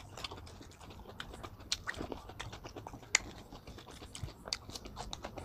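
Close-miked chewing of food: scattered small wet mouth clicks and smacks, quiet and irregular.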